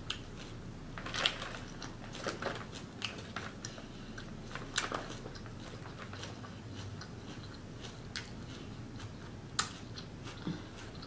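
Close-miked chewing and crunching of Caesar salad with homemade croutons and romaine, scattered crisp crunches and clicks at irregular intervals. The fork clicks against the plastic bowl as she spears more salad.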